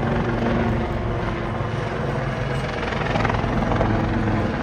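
Royal Navy Wildcat helicopter flying its display, a steady drone of rotor and turbine engines.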